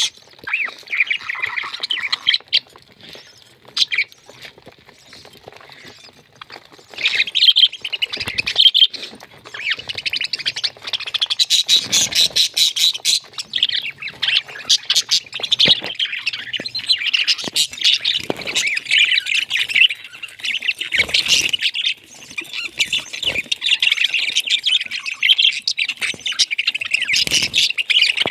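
Pet parrot chattering and squawking in rapid, near-continuous high calls, with a quieter lull for a few seconds near the start.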